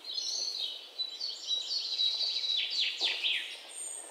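Birds chirping: a run of high-pitched chirps, with several quick downward-sweeping calls about three seconds in.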